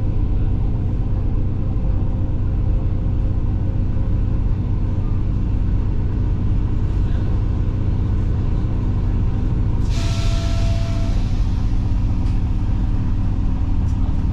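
Steady low rumble of a regional passenger train running, heard on board. About ten seconds in, a sudden loud hiss with a short steady tone starts and fades away over a few seconds.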